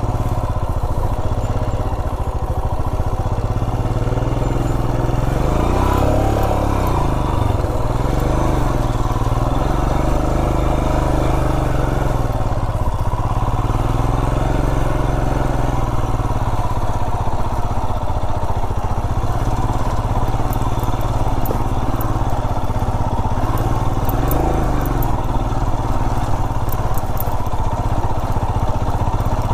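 Royal Enfield Himalayan motorcycle's single-cylinder engine running steadily at low revs, lugging along like a tractor, with slow rises and falls in tone. Faint light clicks come through in the last third.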